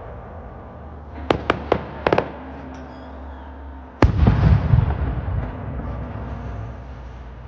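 Aerial fireworks exploding: a quick run of four or five sharp cracks, then about two seconds later one heavy boom whose rumble rolls on for a couple of seconds, echoing off the surrounding hills.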